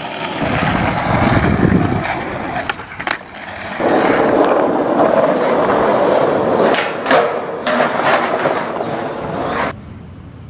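Skateboard wheels rolling over pavement with a few sharp clacks of the board, then the rolling stops abruptly near the end.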